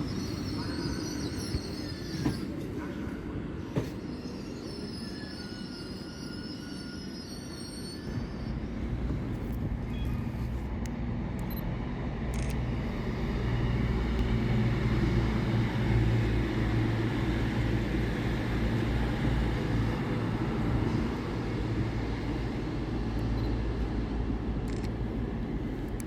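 A train moving slowly through the station, its wheels squealing in high tones for the first several seconds. Then a steady low hum from its engine or traction equipment grows louder and holds.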